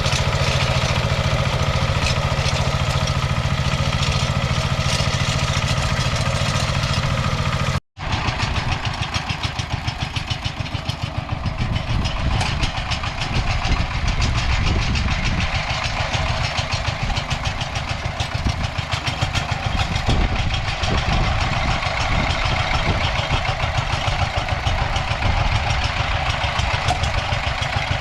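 Walk-behind tractor's diesel engine running steadily under load. About eight seconds in the sound cuts out for an instant, then comes back rougher, with a fast, even chugging beat and more rattle.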